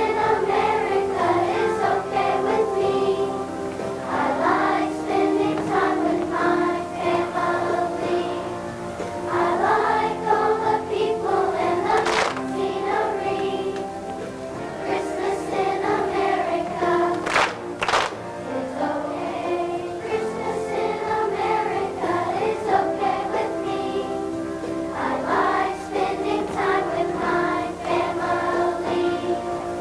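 Children's choir singing a song with musical accompaniment. A few sharp clicks or knocks come through around the middle.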